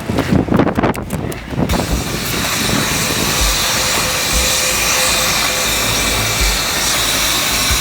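Loud steady rushing hiss, with a rough gusty rumble in the first two seconds before it settles into an even roar.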